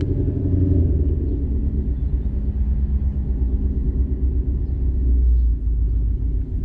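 Car engine idling with a steady low rumble and a constant hum.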